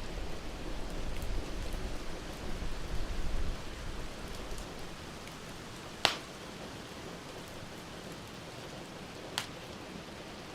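Steady hiss of rain with a low rumble of thunder dying away in the first few seconds. Two sharp pops from the burning wood in the fireplace, about six and nine seconds in; the first is the louder.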